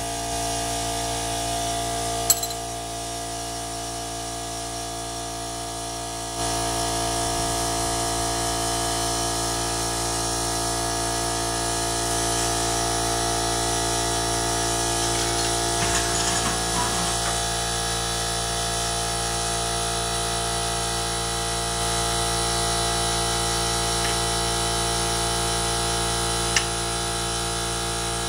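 Air compressor running steadily, with a sharp click about two seconds in and another near the end.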